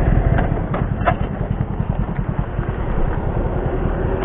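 Motorcycle engine running steadily during a ride, with a few short clicks about a second in.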